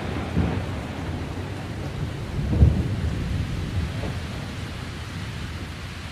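Rolling thunder fading away after a clap, a low rumble with a few deeper swells, the strongest about two and a half seconds in.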